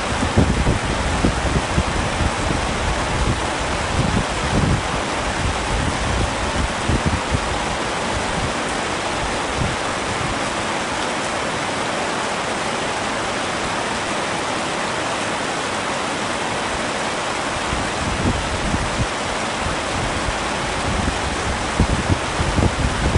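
Heavy rain falling steadily, an even hiss, with low rumbling gusts in the first few seconds and again near the end.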